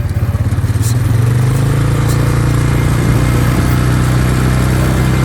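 A small vehicle engine running steadily, picking up a little about a second in and then holding its pitch.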